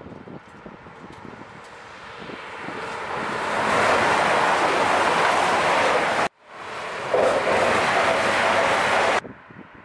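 An East Midlands Railway High Speed Train (InterCity 125) passing at speed: wheel and air rush that builds to a loud, steady roar as the Mk3 coaches go by close at hand. It breaks off sharply about six seconds in, comes back, and cuts away to a low level near the end.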